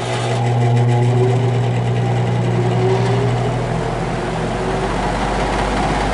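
Vintage GE W12 box fan starting hard on high: a loud motor hum as it spins up, easing off about three to four seconds in, under a rising rush of air from the blades that settles into a steady whoosh.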